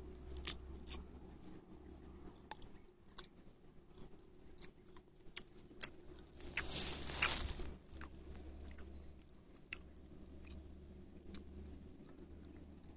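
Dry leaves and twigs crackling and snapping in scattered small clicks, with one longer, louder crunching rustle about seven seconds in.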